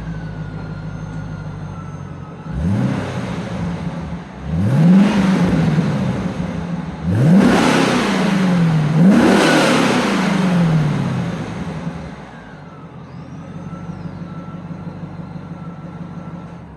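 C4 Corvette's V8 exhaust idling, then revved: a short blip, then three longer revs that climb and fall back, the last two the loudest and close together, before it settles back to idle.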